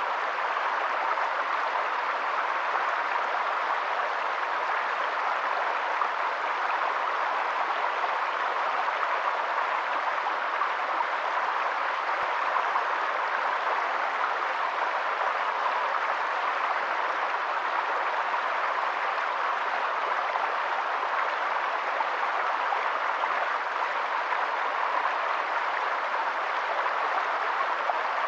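Steady rushing water: an even hiss with no pauses or changes.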